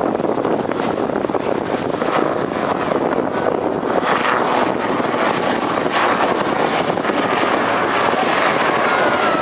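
Westland Lynx AH7 helicopter in flight, its rotor and twin turboshaft engines making a steady, loud noise, with wind buffeting the microphone.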